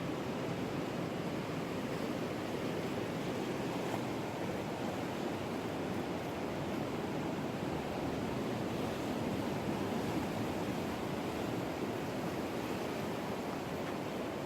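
Ocean surf washing on the shore in a steady, unbroken rush.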